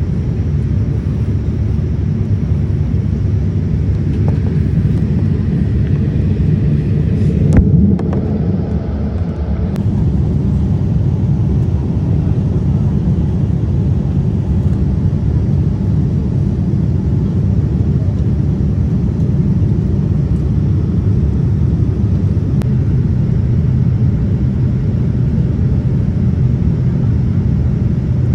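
Steady low rumble of an airliner's engines and airflow, with a brief sharp knock about seven and a half seconds in.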